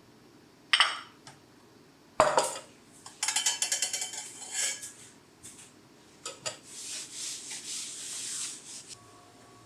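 Dishes and utensils knocking and clattering: a couple of sharp knocks, then a quick run of clinking, then a stretch of scraping.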